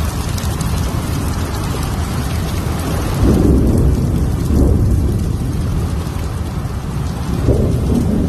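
Heavy rain pouring down in a steady loud hiss, with low rumbles swelling about three seconds in and again near the end.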